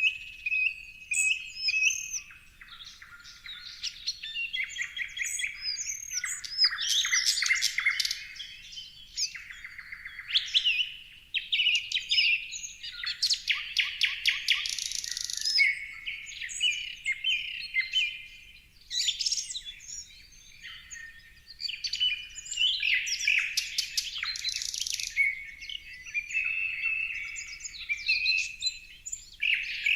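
Several songbirds chirping and singing at once, with overlapping whistled notes and rapid trills that come and go.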